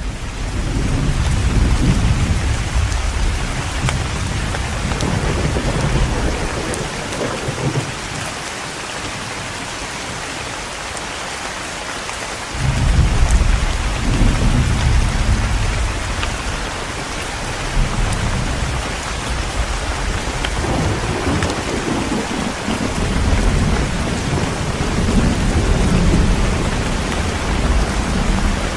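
Heavy rain falling steadily, with thunder rumbling low underneath and swelling and fading in long rolls. A strong roll of thunder breaks in suddenly about halfway through.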